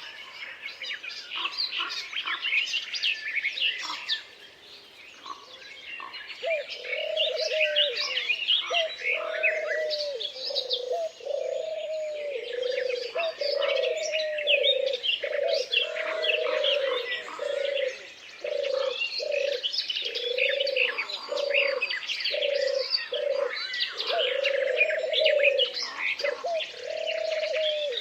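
Forest birds singing: many small birds chirp and trill together, with a lower call repeated over and over from about six seconds in.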